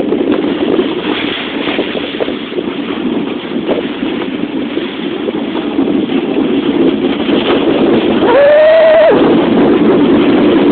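Dodge Ram pickup towing a sled over snow: a steady rumble of engine and sled noise with wind buffeting the microphone and a few knocks. About eight seconds in, a short pitched sound rises and holds for under a second, and the noise gets louder.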